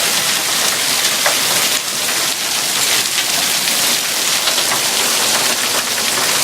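Heavy rain mixed with hail pelting down on surfaces: a dense, steady hiss dotted with many small ticks of impacts.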